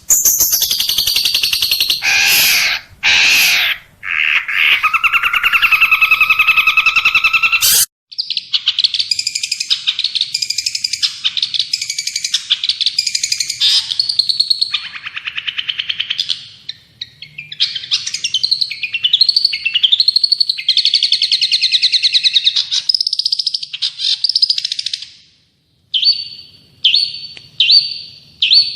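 Recorded songbird song in spliced sections: loud, dense warbling that cuts off abruptly about eight seconds in, then a long run of fast chattering trills, and after a short pause near the end, short notes repeated evenly about one and a half times a second.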